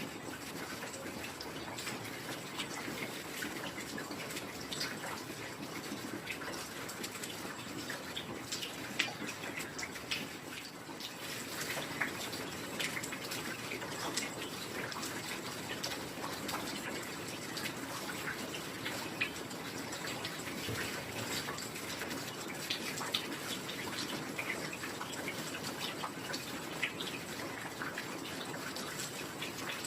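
Steady heavy rain, an even hiss with many small scattered drop ticks and patters.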